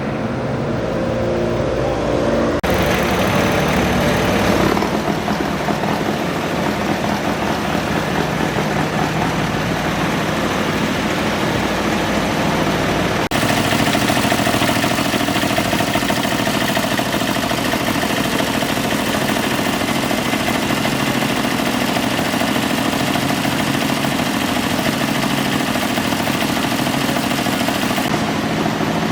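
Modified garden tractor engine running hard and loud. A rougher, fuller roar sets in a few seconds in and drops back near the end.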